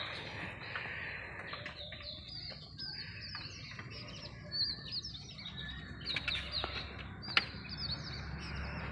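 Birds chirping: many short, high, falling chirp notes repeated throughout, with a few brief knocks here and there.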